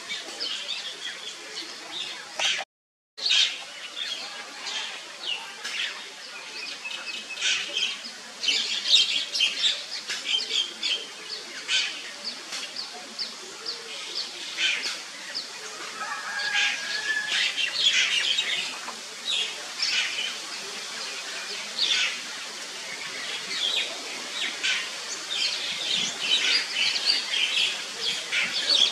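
Birds chirping and calling, many short high calls one after another over a steady outdoor hiss, with a brief dropout to silence about three seconds in.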